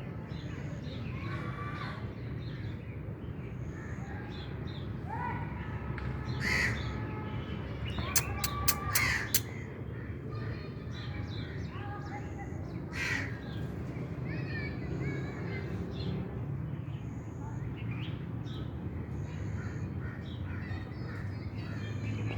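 Crows cawing on and off, with a loud run of caws about eight to nine seconds in, over a steady low background rumble and short high chirps from other birds.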